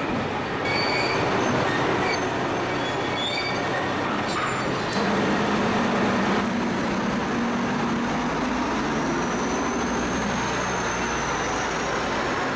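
Passenger carriages rolling past a station platform with a steady rumble from wheels on rails, and high thin wheel squeals in the first few seconds. A locomotive's engine hum passes about halfway through, and a faint squeal rises and falls near the end.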